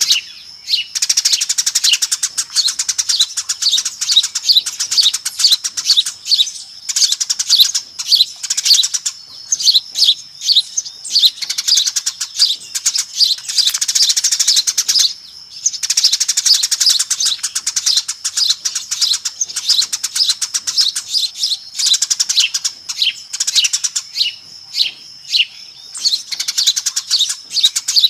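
A flock of Eurasian tree sparrows chattering, with dense, rapid overlapping chirps in long bouts broken by short pauses. It is a lure call, played to attract sparrows.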